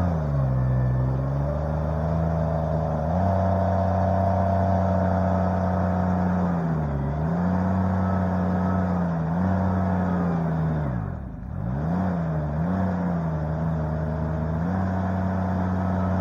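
Derette V1000 mini skid loader's engine running steadily, its pitch dipping and recovering several times as it pulls down under load while working the bucket, most deeply about eleven seconds in.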